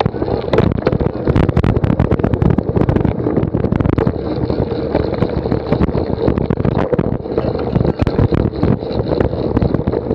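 Wind buffeting the microphone, with frequent sharp knocks and rattles throughout.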